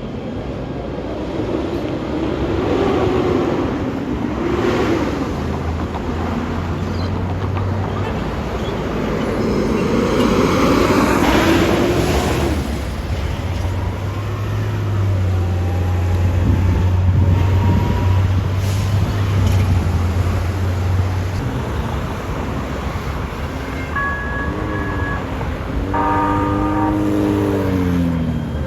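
Metro transit vehicle running past with a strong, steady low hum and a motor whine that rises and falls. Near the end a pitched tone falls in steps.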